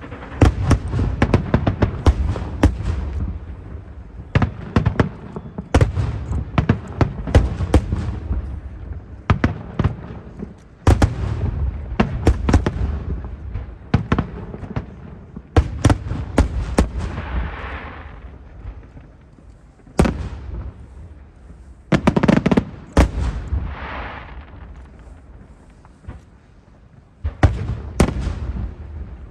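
Aerial fireworks shells bursting in rapid volleys of sharp bangs, each trailing a rolling echo, with softer crackling between some bursts. The volleys pause briefly twice before resuming.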